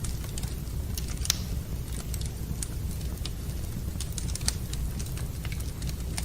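Wood fire burning in a fireplace, crackling with irregular sharp pops over a steady low rumble. Louder pops come about a second in and again around four and a half seconds in.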